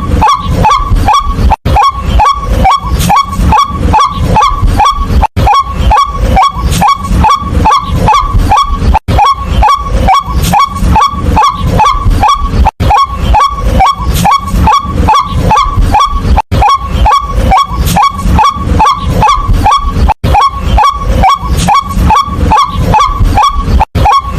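White-breasted waterhen calling over and over: short, loud, croaking notes about three a second, with a brief break every few seconds.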